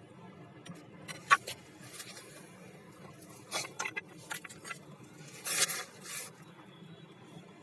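A few light clicks and knocks at irregular moments, with a short scraping rustle a little past the middle.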